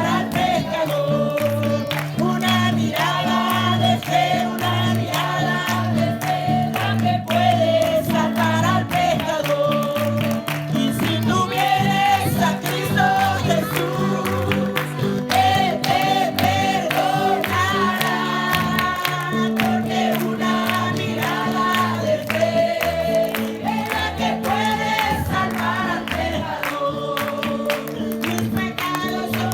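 Group singing of Spanish-language revival worship choruses with instrumental backing: a steady bass line and regular percussion under the sung melody.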